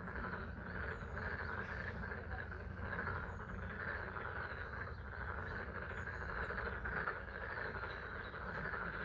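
A pond frog chorus: many frogs calling at once in a dense, steady trill, with spring rain falling.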